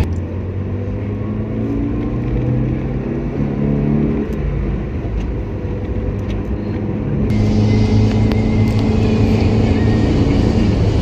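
Car engine and road noise while driving, the engine note holding and shifting as the vehicle changes speed. A brighter hiss of tyres or wind comes in about seven seconds in.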